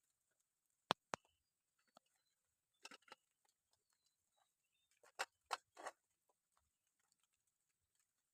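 Water drops dripping as scattered sharp taps against near silence: two quick taps about a second in, a short cluster near three seconds, and three louder taps between five and six seconds.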